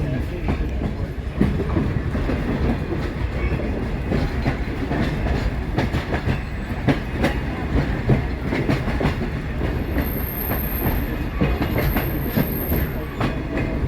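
Passenger train running along the track, heard from an open-air coach: a steady low rumble with wheels clicking over the rail joints. Twice in the last few seconds a thin, high-pitched wheel squeal rises over it.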